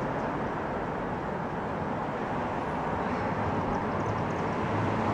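Steady outdoor road-traffic noise, with a vehicle's low engine hum growing louder near the end.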